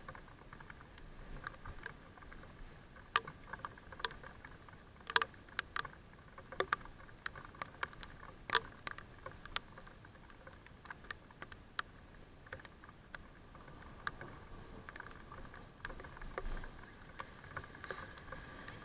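Irregular light clicks and taps over a faint steady noise during a bicycle ride in the rain.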